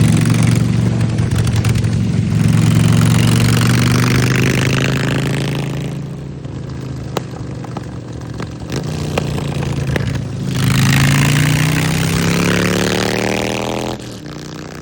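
Motorcycle engine under throttle, its pitch climbing slowly for about six seconds, easing off, then climbing again before dropping away sharply near the end, with wind noise over it.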